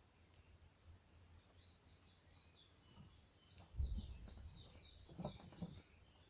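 A songbird sings a quick run of high, falling notes, about three a second, over dull low thumps; the loudest thump comes about four seconds in.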